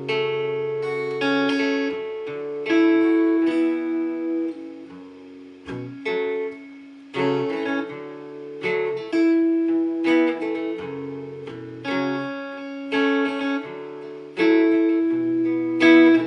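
Acoustic guitar strummed, chords struck every second or two and left to ring, in an instrumental passage of a simple song.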